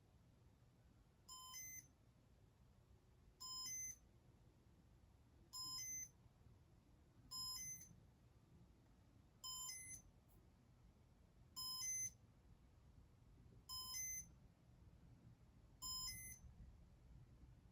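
Casablanca Stealth ceiling fan's Comfort-Touch electronic control beeping: eight short electronic beeps, about one every two seconds.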